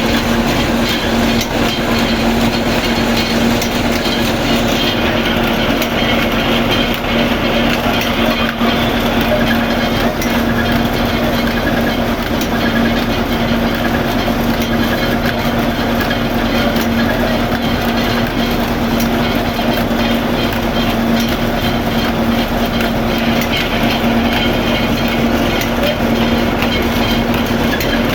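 Flour mill (atta chakki) running steadily, its motor and grinding mechanism giving a constant loud hum with dense rattling noise over it.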